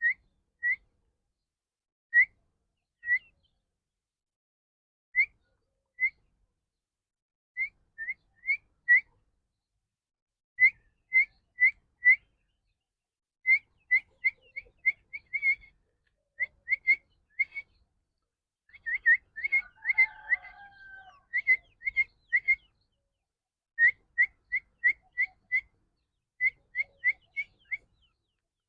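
Partridge chick peeping: short, high, slightly rising whistled peeps, spaced out at first, then in quick runs of several. About two-thirds of the way through there is a brief rougher, lower-pitched stretch among the peeps.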